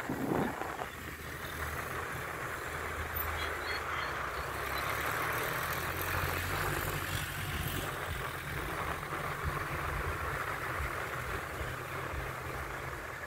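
A motor vehicle engine running steadily, with a continuous rushing noise over it.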